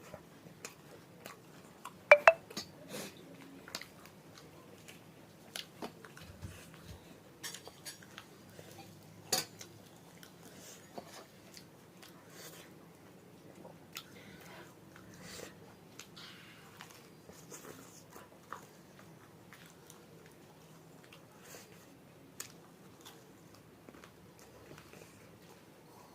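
Cutlery clinking against a plate in scattered, irregular strikes, with close chewing between them. The loudest clinks come about two seconds in and again near the middle.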